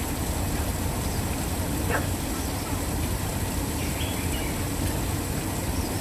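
Waterfall rushing steadily, a continuous even roar of falling water. A bird gives a short high chirp about four seconds in.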